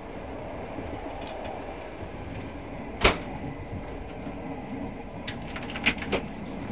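Passenger train carriage running along the track, a steady rumble heard from inside the carriage, with one sharp knock about three seconds in and a quick cluster of clatters near the end.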